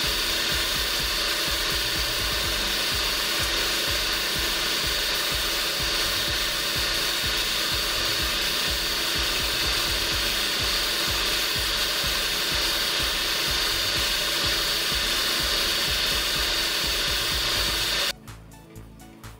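Gravity-feed compressed-air spray gun hissing steadily as it sprays paint, cutting off suddenly near the end.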